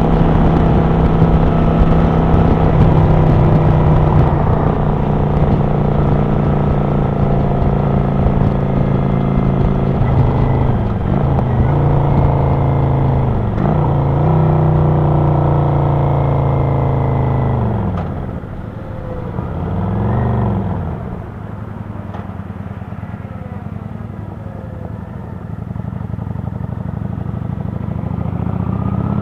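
Kawasaki Vulcan 900 Classic LT's V-twin engine running while riding, heard from the helmet camera. It holds a steady cruising note, dips briefly in pitch twice near the middle, then drops to a lower, quieter note with one short rise and fall of revs, and slowly builds again near the end.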